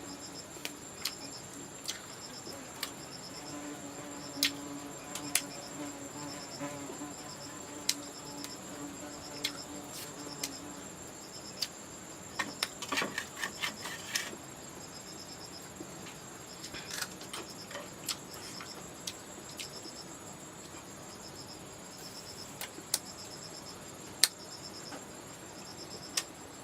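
Insects chirping in a regular, repeating rhythm over a steady high-pitched insect whine. Scattered sharp clicks and snaps break in, with a dense spell of rustling and clicks about halfway through.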